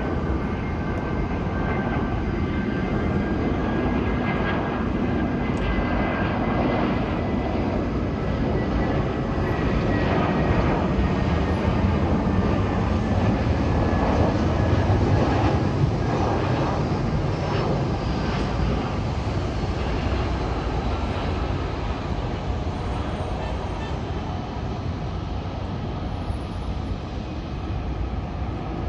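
Jet airliner's engines running as it passes, a broad rumble with a faint high whine, growing to its loudest about halfway through and then fading.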